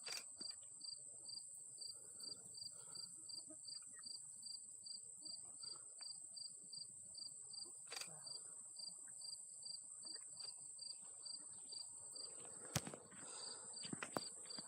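Insects calling in a steady chorus: a constant high buzz, and over it an even, pulsing chirp two or three times a second. A few faint sharp clicks come late.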